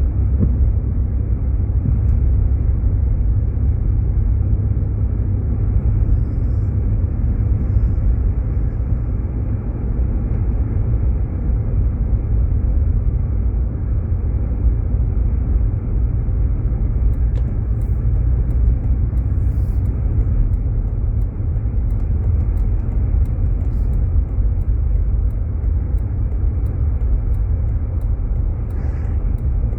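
Steady low road and engine rumble inside the cabin of a Jeep Grand Cherokee driving on snowy roads, with faint light clicks from about halfway through.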